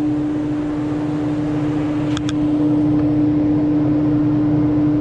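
A loud, steady machine hum at one pitch, with two quick clicks about two seconds in.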